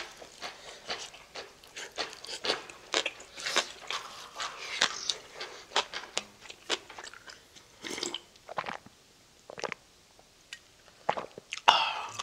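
Close-miked chewing and biting of food: rapid crunchy, wet clicks, thinning out to a quieter stretch about two-thirds through, then a louder mouth sound near the end.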